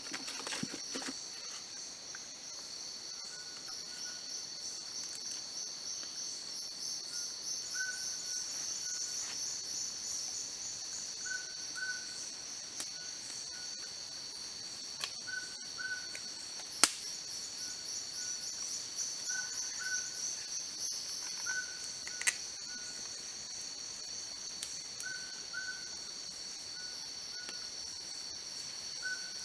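Dense, steady chorus of forest insects, high-pitched and pulsing, with a short chirping call repeating every second or two beneath it and a couple of sharp clicks.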